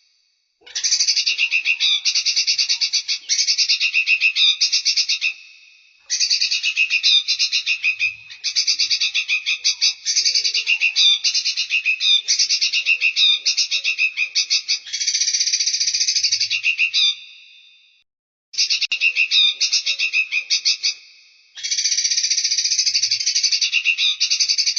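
Songbird singing long, fast trills of rapidly repeated high notes in phrases several seconds long, broken by short pauses.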